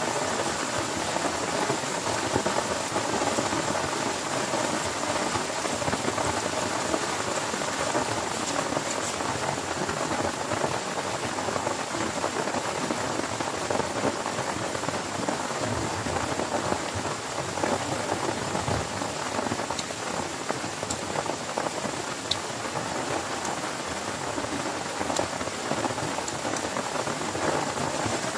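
Heavy rain falling steadily on a tent, a dense even patter.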